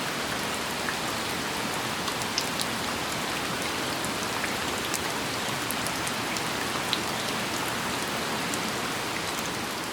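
Steady rain, with many individual drops ticking sharply on surfaces over an even hiss.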